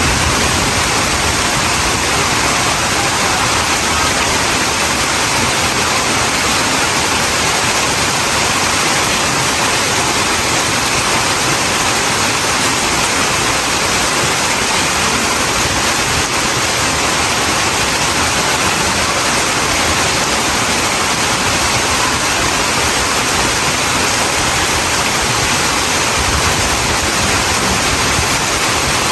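Rain falling steadily, a dense, even hiss that holds at the same loudness throughout.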